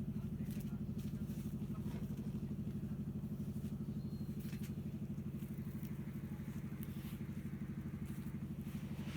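A steady low motor hum with a fast, even pulse, and a few faint light clicks over it.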